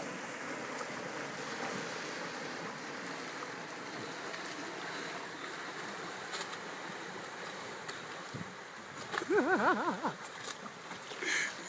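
Steady rush of water and surf, with a loud wavering call from a person about nine seconds in.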